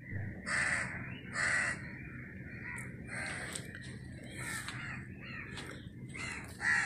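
Crows cawing repeatedly: two loud caws about half a second and a second and a half in, then a run of further caws, over a low steady background hum.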